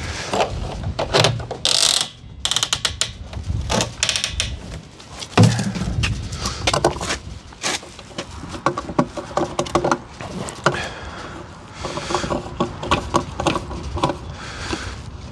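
Handling noises: a run of mechanical clicks, rattles and knocks, with one loud thump about five and a half seconds in.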